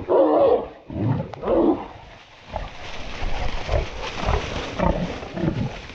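A feral boar caught by hunting dogs, squealing and grunting in loud bursts while the dogs hold it.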